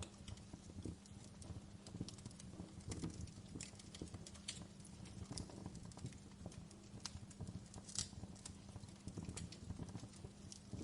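Campfire burning, wood crackling and popping irregularly over a low steady rumble, with the loudest pop about eight seconds in.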